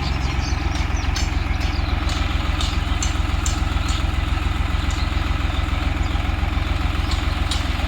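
Eicher 5660 tractor's three-cylinder diesel engine running steadily at low revs with an even, fast throb, with a few scattered sharp clicks over it.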